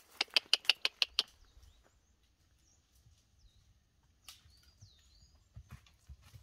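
A bird calling close by: a quick run of about seven sharp notes in the first second or so, then a few faint chirps. Soft low thuds of horse hooves come near the end.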